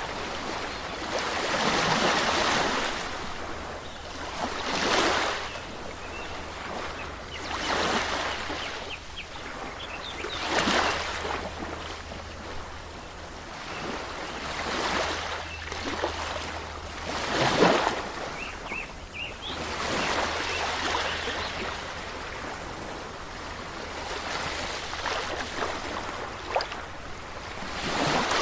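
Waves washing in and drawing back, one swell every few seconds, each rising and falling away.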